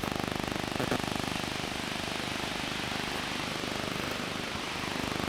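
An engine running steadily at a constant speed, with an even, rapid pulsing.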